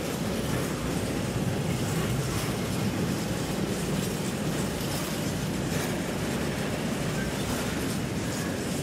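Freight train of tank wagons rolling past close by: a steady, low rumble of wagon wheels on the rails.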